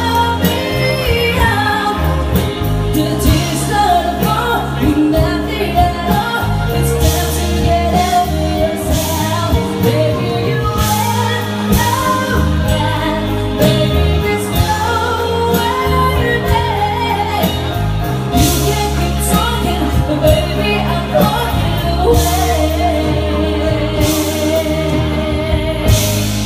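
A singer performing a pop song live to accompaniment, with a steady bass line and regular drum hits.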